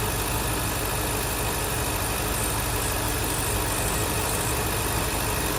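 Ford 7.3 L Godzilla gasoline V8 idling steadily, heard from close by at the front of the engine, just after its upper idler pulley was replaced to chase a random tick.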